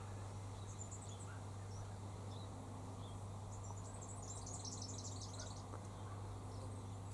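Faint bird chirps scattered through, with a burst of rapid high twittering about four seconds in, over a steady low hum.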